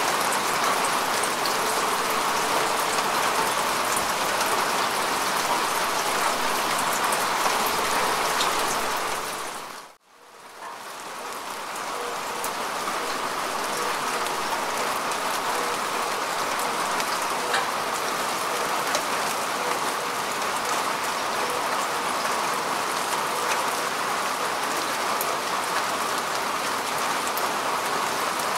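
Steady rain falling on grass and earth: an even hiss with fine scattered drop ticks. About ten seconds in, the sound drops away almost to silence for a moment, then fades back up to its steady level.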